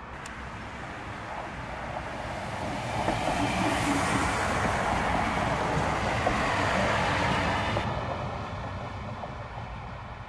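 Siemens Desiro diesel multiple unit passing close by, its engine and wheels on the rails rising to a loud rush, then dropping away.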